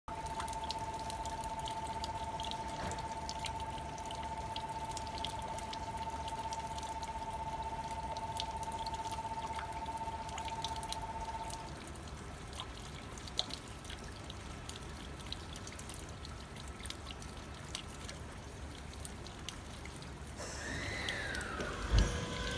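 A steady two-tone electronic bell rings for about twelve seconds, then stops, leaving a low rumble with scattered faint clicks. Near the end, the ET127 series electric train's traction equipment starts with a falling whine and a sharp low thump as it sets off.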